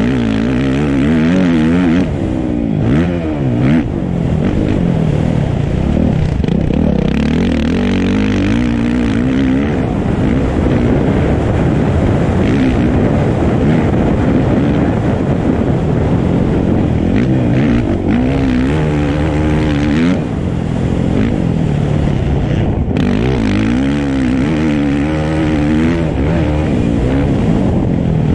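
Motocross dirt bike engine revving hard and dropping back again and again, its pitch climbing and falling as it goes through the gears on a track.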